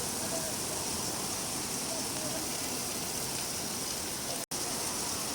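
Steady rain, a continuous even hiss. It cuts out completely for an instant about four and a half seconds in.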